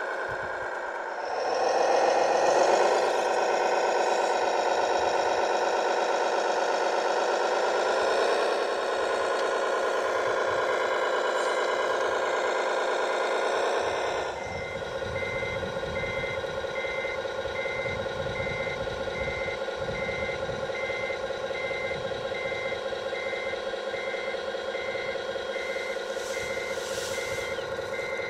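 Engine sound of a radio-controlled construction vehicle, rising and falling in pitch as it works. About halfway through it settles to a steady run and a reversing alarm starts beeping about once a second, the sign that the machine is backing up.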